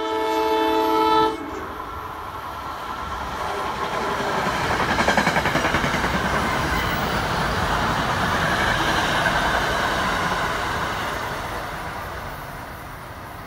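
NJ Transit electric multiple-unit commuter train sounding a short multi-tone horn blast about a second long, then passing at speed with wheels clacking over the rail joints. The passing noise builds to its loudest in the middle and fades as the train moves away.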